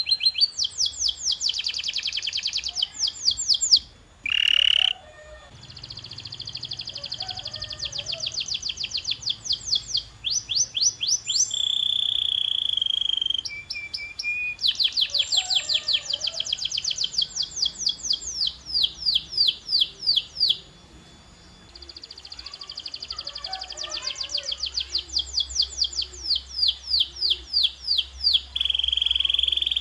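Domestic canary singing: phrase after phrase of fast trills and rolls, each a quick run of repeated high notes, with one held whistled note in the middle. There is a brief break about four seconds in and another about two-thirds of the way through.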